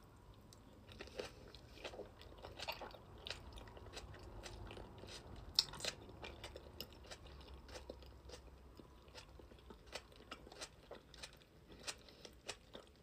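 A person biting and chewing a boiled onion that is still a little too crunchy: a run of small wet crunches and clicks, with one louder crunch about halfway through.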